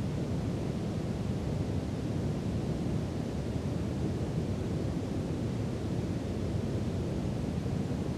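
Steady brown noise: an even, deep hiss, strongest in the bass and thin in the treble, with no change.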